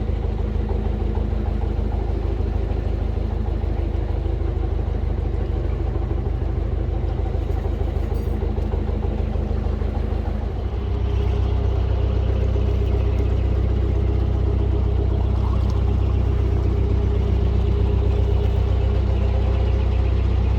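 Narrowboat's diesel engine running steadily, with a low drone; about halfway through it is throttled up and the drone grows louder and stays there.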